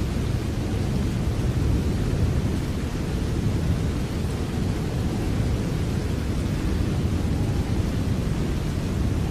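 Steady rain, an even rushing noise weighted heavily toward a deep low rumble, with no single drops or claps standing out.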